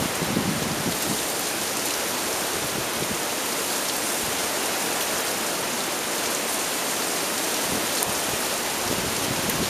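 Heavy downpour of a microburst thunderstorm: a steady, even hiss of rain pouring onto pavement and roofs.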